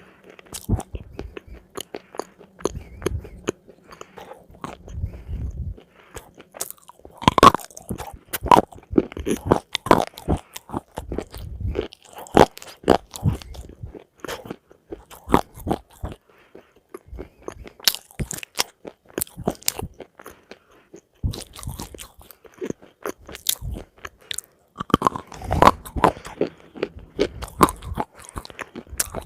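Close-miked biting and chewing of crunchy food: long runs of sharp crunches, with louder bouts of biting about a quarter of the way in and again near the end.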